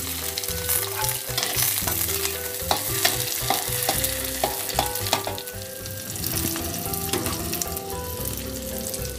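Chilli, tomato and sliced shallot sizzling in hot oil in a wok as they are fried for sambal terasi, with a spatula stirring and scraping the pan. Sharp clicks of the spatula against the wok come between about two and a half and five seconds in, and the sizzle eases a little after that.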